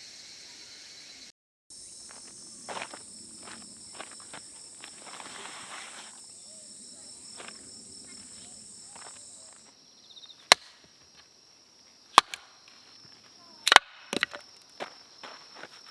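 Insects chirring steadily, with soft clicks and rustling, then four loud, sharp cracks of breaking wood in the second half, spaced a second or two apart.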